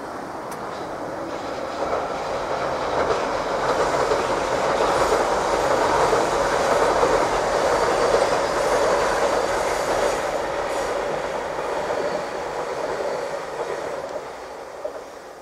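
A JR Kyushu 885 series limited express electric train crossing a steel girder bridge. The train and bridge noise builds as it approaches, is loudest about halfway through, and fades away near the end.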